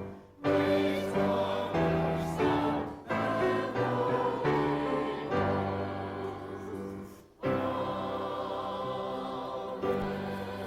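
Church choir singing an anthem with instrumental accompaniment, in sustained phrases broken by brief pauses about three and seven seconds in, ending on a long held chord that fades.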